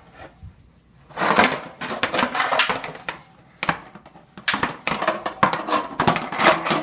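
Clattering and banging of metal objects: a series of sharp knocks and clangs with ringing, coming in several bunches.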